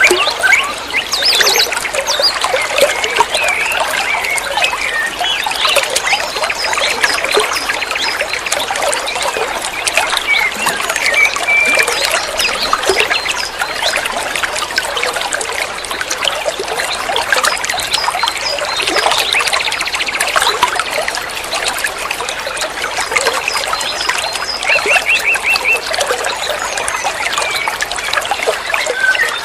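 Water trickling and flowing steadily, with small birds chirping over it and a short rapid trill near the end.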